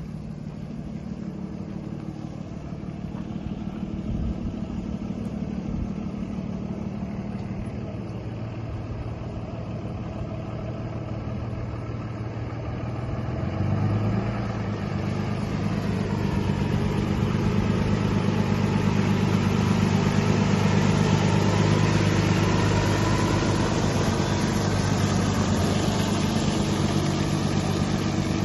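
Cummins 6.7-litre diesel of a Freightliner M2 water truck idling steadily, then picking up speed and getting louder about halfway through and holding there. A steady hiss builds soon after the engine steps up.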